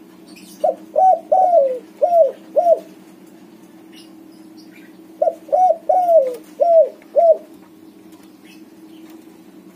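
Spotted dove (tekukur) of white plumage cooing: two phrases of five coos each, a couple of seconds apart. A steady low hum runs underneath.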